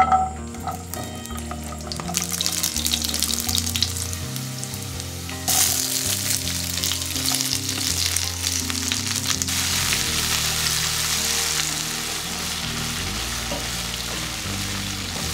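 Whole garlic cloves dropped into a hot oiled wok with a brief clatter, then sizzling in the oil. About five and a half seconds in the sizzle jumps louder as red cabbage and bell peppers go in and are stir-fried, easing off near the end.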